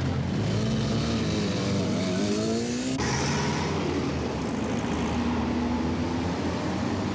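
Street traffic with a car engine accelerating, its pitch rising for about two seconds. It cuts off abruptly about three seconds in, and steady traffic noise follows.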